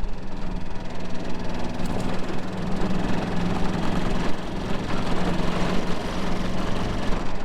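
A motor vehicle engine running steadily, a low even hum with a rough, rattly edge.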